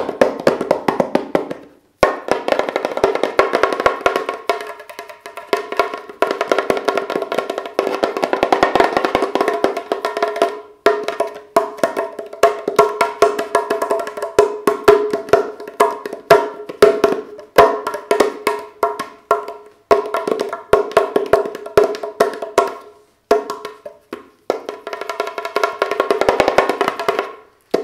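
The larger drum of a Moroccan tbilat pair, a handmade clay drum with a goat-skin head, played with the fingers in quick runs of strokes, each with a short pitched ring, broken by a few brief pauses.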